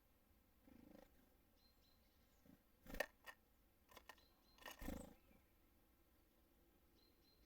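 Birds at a feeder: a handful of sharp knocks and taps about three to five seconds in, with a few faint, short, high calls of small birds.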